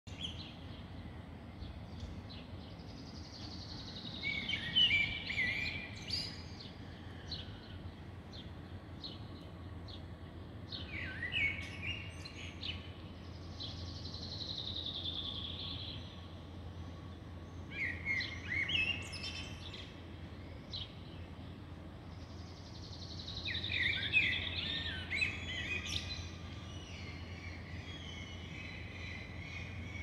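Songbirds singing in summer trees. One bird repeats a phrase that slides down in pitch, three times about ten seconds apart, among scattered chirps from other birds, over a steady low background hum.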